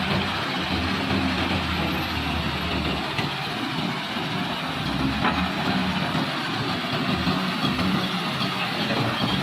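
Heavy diesel machinery engines running steadily, a wheel loader and waiting dump trucks at a stone quarry, with a couple of faint sharp ticks.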